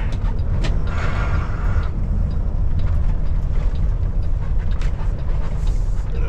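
Kenworth T680 semi truck's diesel engine running, heard from inside the cab as a steady low rumble.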